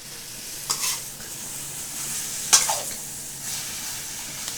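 Chicken curry with onion and tomato sizzling steadily in a frying pan, with two brief sharp sounds, about a second in and just past the middle, the second the louder.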